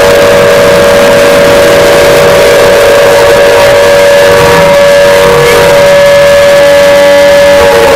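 Emergency alert (EAS) alarm tone: a loud, distorted siren-like wail of several tones held at a steady pitch, its lower tone sliding slightly downward near the end.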